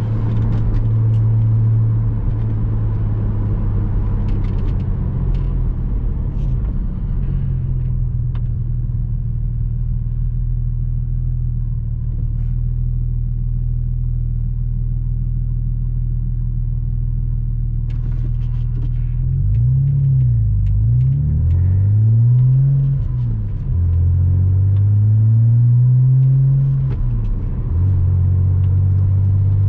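Porsche Boxster 986's flat-six engine running steadily under way. About two-thirds of the way through, its note rises and falls several times, then settles back to a steady pitch near the end.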